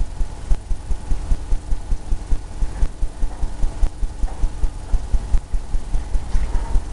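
Paintbrush dabbing and stroking on a stretched canvas, the canvas giving rapid low thumps, about four a second.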